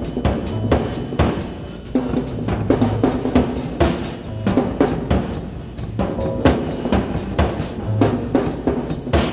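Live rock band playing an instrumental jam, driven by busy drum-kit playing with many strikes each second over a bass line, with no vocals.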